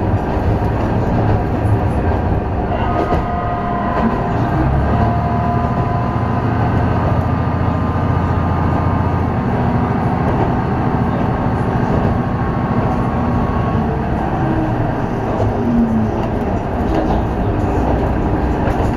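A diesel railcar running at speed, heard from inside the cabin: a steady engine drone under the rolling noise of the wheels on the rails. A thin whine rises above it for several seconds in the middle.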